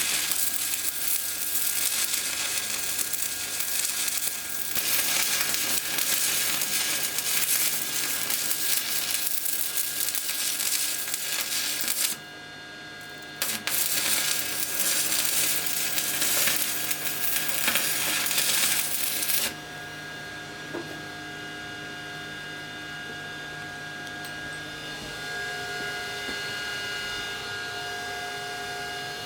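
Electric arc welding with a REM Power WMEm 250 Lynx inverter welder: a steady crackling sizzle from the arc. It breaks off about twelve seconds in, resumes a second or so later, and stops for good about twenty seconds in, leaving a steady hum.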